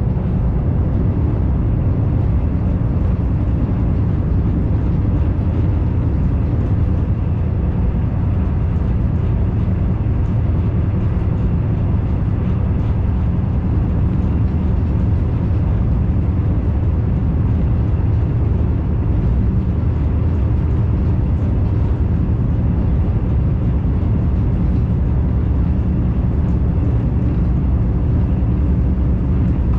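Commuter train running steadily, heard from inside the carriage: an even, deep rumble of wheels on rail with a faint steady hum.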